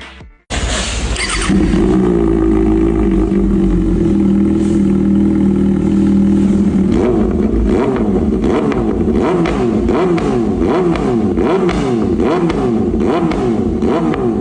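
Kawasaki ZX-6R inline-four motorcycle engine through an Arrow aftermarket exhaust, starting up about half a second in and idling steadily, then revved repeatedly in quick blips from about halfway on.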